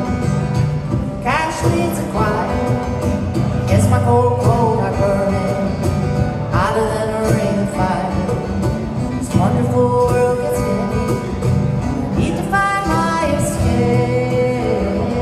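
A singer performing a country-pop song cover over instrumental accompaniment, the voice sliding between held notes.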